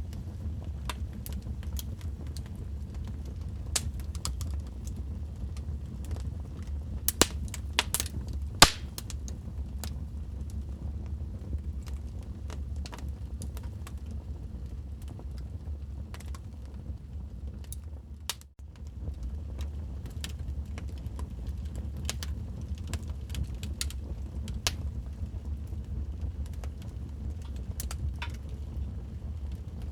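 Wood fire crackling in a fireplace: a steady low rumble under a continual scatter of sharp crackles, with a cluster of louder pops about seven to nine seconds in.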